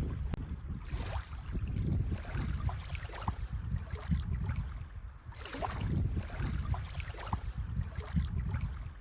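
Small waves washing onto a sandy beach, swelling and falling back every few seconds, with a low rumble of wind on the microphone underneath.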